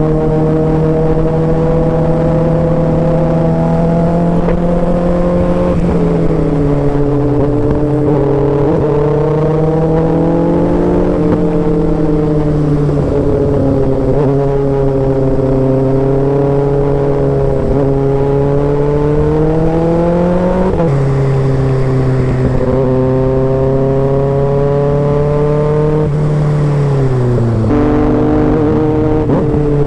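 Kawasaki Ninja inline-four sportbike running on an aftermarket exhaust while riding: the engine note climbs and falls steadily with the throttle, with a few sudden drops in pitch.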